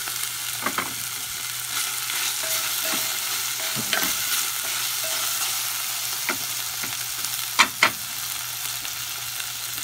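Chicken pieces sizzling as they sauté in a glass pot while being stirred with a spoon, with a few knocks of the spoon against the pot; two sharp clinks close together near the end are the loudest sounds.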